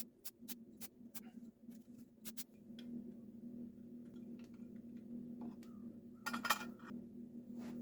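Light clicks and taps of small parts being handled, over a steady low hum. About six and a half seconds in there is a short, louder clatter.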